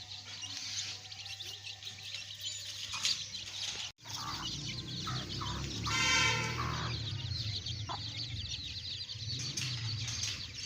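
A brood of chicken chicks peeping continuously in a dense high-pitched chorus. A louder, drawn-out call from an adult chicken comes about six seconds in. The sound drops out briefly about four seconds in.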